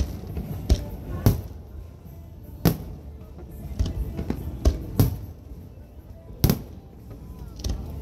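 Aerial fireworks shells launching and bursting overhead: sharp booms at irregular intervals, about ten over eight seconds, the loudest a second or more apart with softer pops between them.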